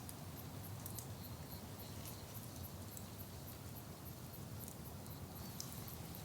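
Faint outdoor ambience: a steady low rumble with a light hiss and sparse, faint high ticks.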